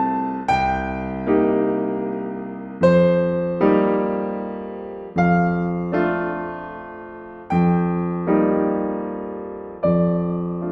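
Slow, gentle solo piano music: soft chords struck about once a second or so, often in pairs, each left to ring and die away.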